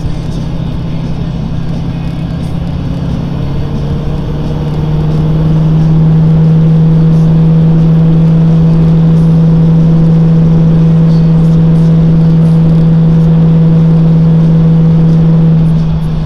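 1970 Ford Mustang's engine droning steadily at cruising speed over road and wind noise. About four to five seconds in its hum rises slightly in pitch and gets louder as the car pulls harder, holds there, then eases off shortly before the end.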